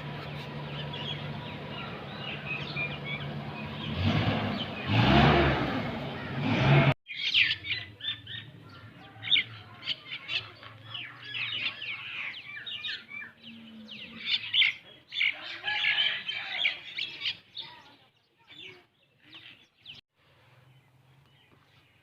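Small birds chirping in many short, high calls that thin out and fade near the end. Before them, for the first few seconds, a steady noisy background with a low hum that swells and then cuts off abruptly.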